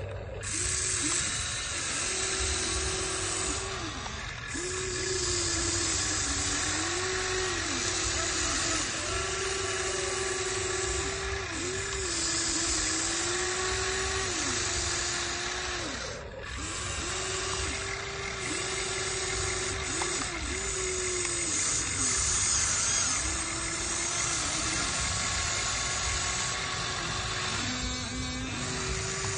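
Small electric motors of an RC excavator whining in repeated runs of a second or two, each rising in pitch as it starts and dropping as it stops, over a steady hum of gears.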